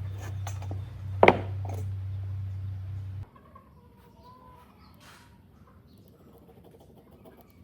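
A machine's low, steady hum cuts off suddenly about three seconds in. About a second in, a short, loud call sounds over the hum, and fainter calls and small noises follow once the hum stops.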